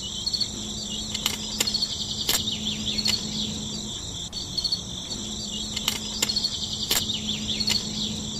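Insects chirping steadily in a high, even chorus of repeating chirps, with a few light clicks scattered through it as small plastic model parts are handled.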